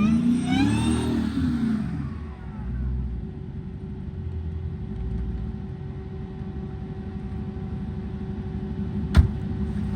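Dodge Hellcat's supercharged 6.2-litre HEMI V8 revving up and down for the first two seconds as the car spins donuts on snow and ice, then settling to a steady idle. A single sharp knock about nine seconds in.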